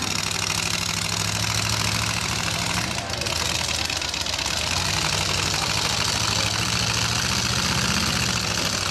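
Demolition derby trucks' engines running steadily: a low rumble with a rapid firing pulse, over an even background hiss.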